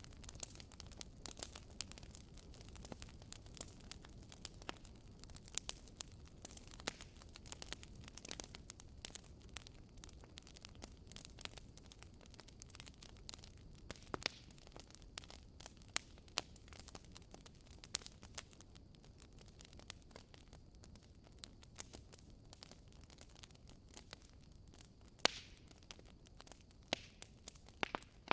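Wood fire crackling in a fireplace: irregular sharp pops and snaps from the burning logs over a faint low hiss.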